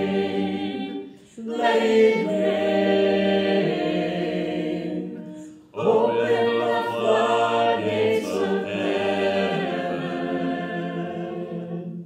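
Church choir singing, in three held phrases with short breaks between them; the last phrase fades out at the end.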